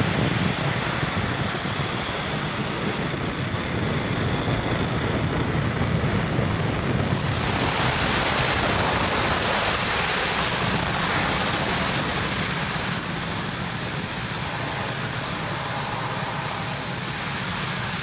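Falcon 9 rocket's nine Merlin 1D first-stage engines in powered ascent just after liftoff: a continuous rushing rumble that grows brighter and hissier about seven seconds in.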